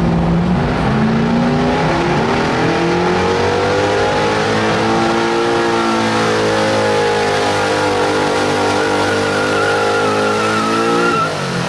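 1972 Chevrolet pickup's gas engine at full throttle under heavy load, pulling a weight sled in a truck pull. Revs climb over the first few seconds, hold high and steady, then drop away sharply near the end as the throttle is let off.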